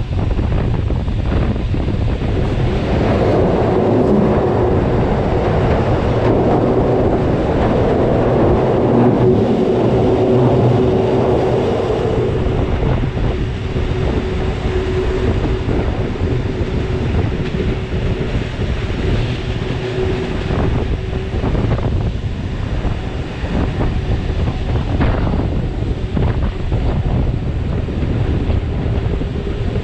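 Rhaetian Railway passenger train on the Bernina line running along the track, heard from a carriage window, with wind buffeting the microphone. A steady tone runs through the running noise from a few seconds in.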